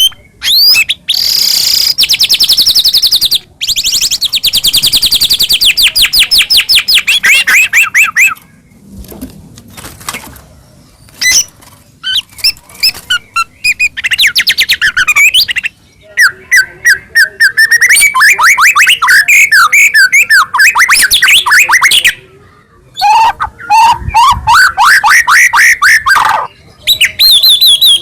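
White-rumped shama (murai batu) singing nonstop, with loud phrases of fast repeated trilled and sweeping notes broken by short pauses.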